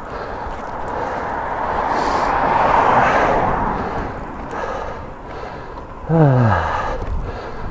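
Wind and road noise from a road bike ride, swelling to a peak about three seconds in and easing off. About six seconds in, a short voiced groan from the rider drops sharply in pitch.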